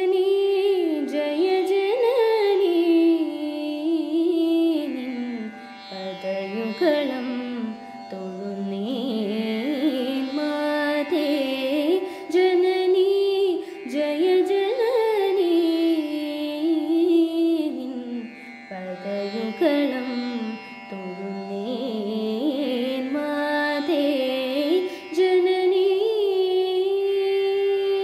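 A woman singing a wordless melody full of long sliding and ornamented notes, over a steady drone note.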